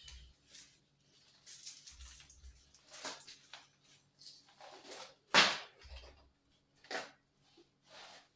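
Rustling and knocking of groceries and bags being handled and carried, with one louder knock about five and a half seconds in.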